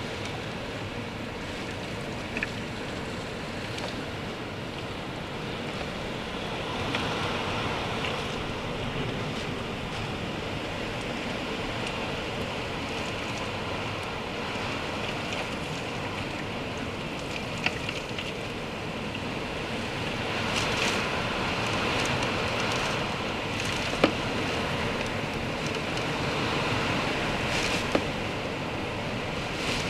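Hurricane wind and rain: a steady rushing roar that swells in gusts a quarter of the way in and again over the last third. A few sharp knocks stand out above it.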